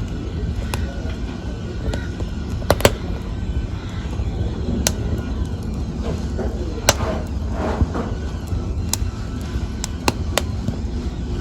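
Wood fire burning in a fireplace with a steady low rumble and sharp crackles and pops every second or two. There is a short fluttering hiss a little past the middle.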